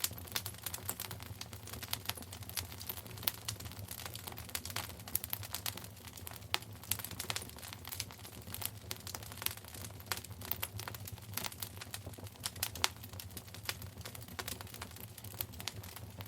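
Wood fire crackling in a fireplace: many irregular sharp snaps and pops, a few standing out louder, over a low steady hum.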